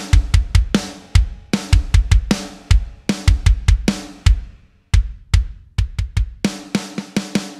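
Drum kit played in fast, busy patterns: kick drum, snare and tom strikes with hi-hat or cymbal hits, broken by a short pause about halfway through.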